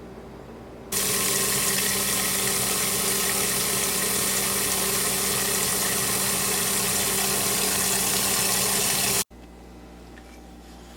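Kitchen tap running in a steady stream, as for washing raw chicken. It starts abruptly about a second in, holds even with a faint hum beneath, and cuts off suddenly near the end.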